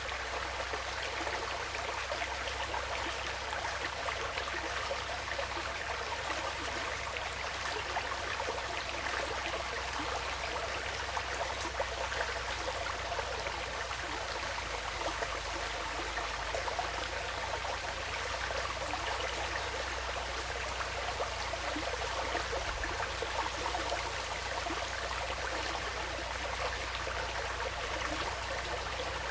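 Woodland stream flowing steadily, a continuous rush of running water with fine flickering detail, unchanging throughout.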